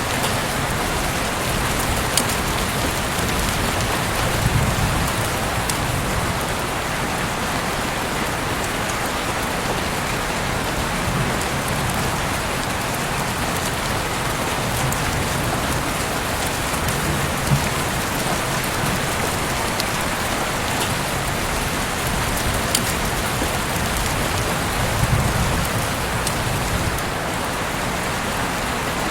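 Heavy rain falling steadily, a dense even hiss with scattered individual drops ticking sharply close by.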